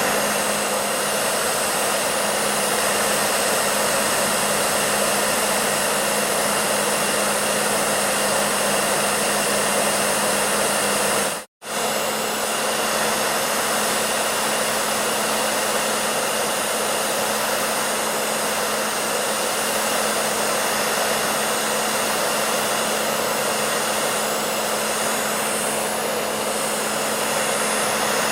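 Hair dryer running steadily: a dense, even rush of air with a constant low hum. It cuts out for a split second about eleven seconds in, then carries on as before.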